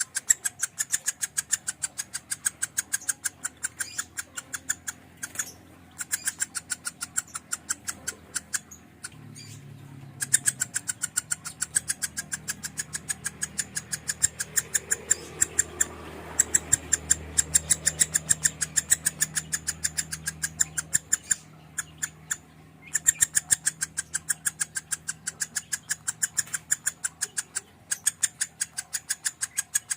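Lovebird singing a 'konslet' song: a long run of sharp, rapidly repeated chirps, about five a second, broken by a few short pauses. A faint low hum sits under the middle part.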